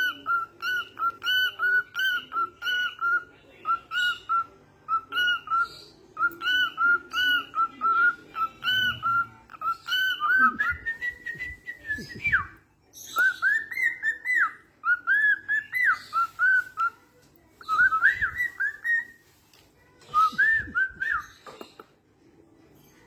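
Budgerigar whistling a rapid run of short, clear notes, about three a second, with brief pauses; about halfway through the notes step up higher in pitch, and the whistling stops shortly before the end.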